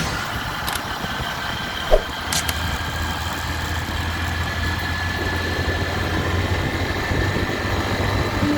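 Motorcycle engine running steadily with a low hum, with one short knock about two seconds in.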